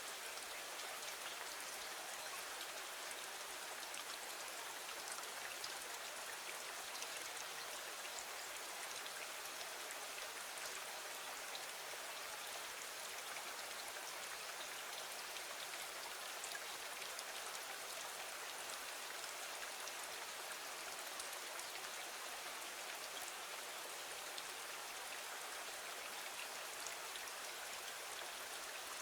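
Steady rain: an even hiss of falling rain with a fine patter of drops, unchanging in level.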